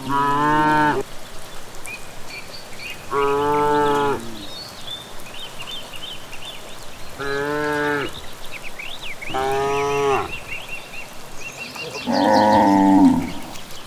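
Cattle mooing: five short calls of about a second each, a few seconds apart, the last one louder and wavering. Birds chirp throughout.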